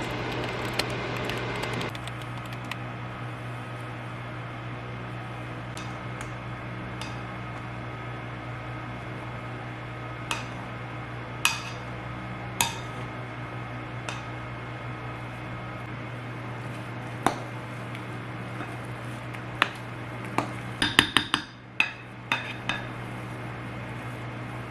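Dishes and cutlery clinking now and then over a steady low hum, with a quick flurry of clatter near the end.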